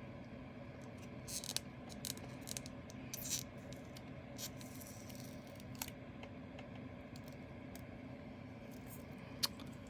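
Diamond-painting drills and their small plastic bags being handled: scattered soft clicks, rattles and rustles, most of them in the first few seconds, with a single sharp click near the end, over a faint steady hum.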